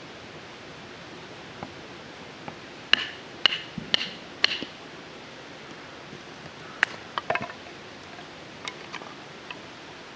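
Four sharp hard knocks about half a second apart, then several lighter clicks and knocks, over a steady hiss.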